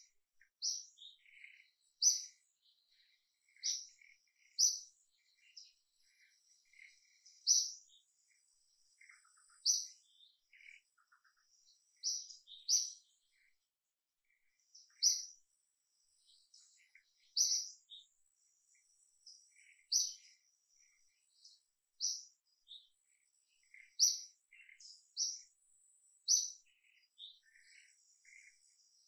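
Birds chirping in the forest canopy: short, high chirps repeated every second or two, with fainter calls between them.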